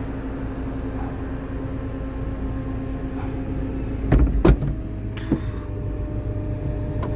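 Peugeot 207 CC's power retractable hardtop closing: a steady motor hum, a few heavy clunks a little past halfway as the roof sections come together, then a higher motor whine takes over.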